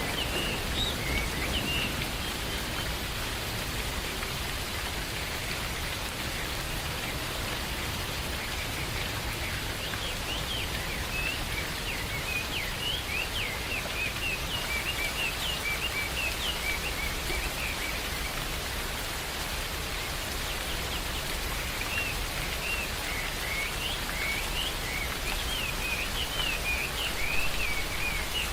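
Steady rain falling, with small birds chirping in short runs of high notes through the rain, and the tail of a thunder rumble fading at the very start.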